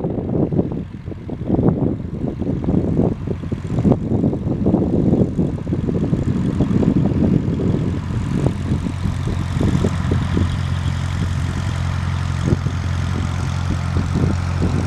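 Beechcraft P35 Bonanza's six-cylinder piston engine and propeller at takeoff power. An uneven, gusty rumble settles into a steady, even drone about eight seconds in.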